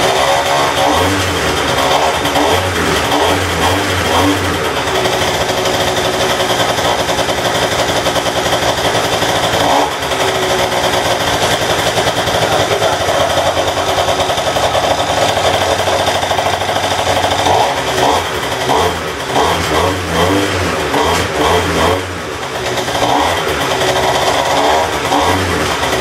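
Gilera Ice scooter's 70cc two-stroke engine on its standard exhaust, running and being revved: a steady high run with a brief let-off about ten seconds in, then the throttle blipped up and down repeatedly in the second half.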